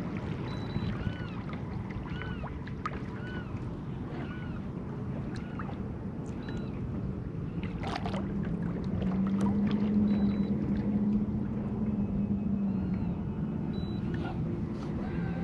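Boat motor running on the water: a steady low hum that swells about eight seconds in and fades again a few seconds later, over a low rumble.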